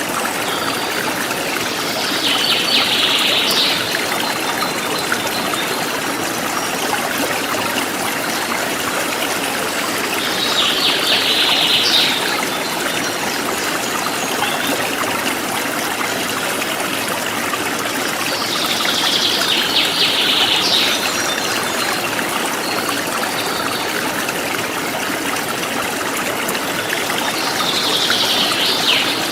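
Forest stream flowing steadily. Over it, a bird gives a short trilled call four times, about eight seconds apart.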